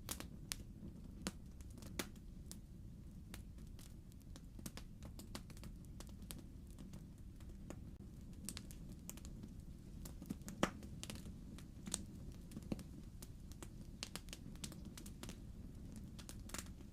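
Fire in a fireplace crackling: irregular sharp pops and snaps over a low steady rumble, with one louder pop about two-thirds of the way through.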